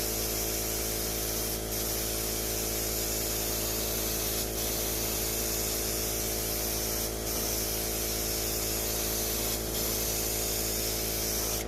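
Airbrush spraying paint in a steady hiss while a base coat is laid on, dipping briefly about every two and a half to three seconds between strokes. A steady low hum runs underneath.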